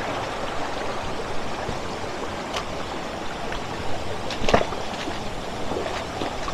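Shallow stream water running and trickling over rocks between small pools, a steady rush, with a few sharp clicks, the loudest about four and a half seconds in.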